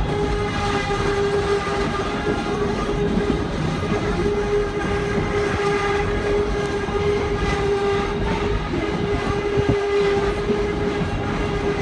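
Narrow-gauge steam train running, heard from aboard: a steady rumble of the cars with a held, steady tone over it throughout.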